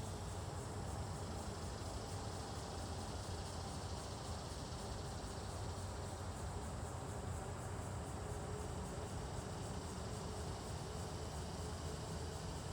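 Steady outdoor ambience of insects chirping, high and continuous, over a low, even rumble.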